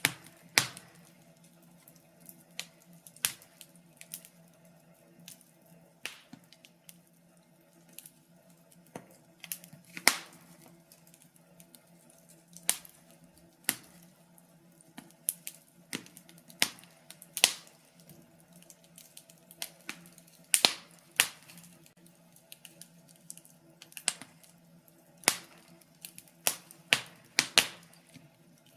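Fire crackling in a fireplace: irregular sharp pops and snaps, about one or two a second, some much louder than others.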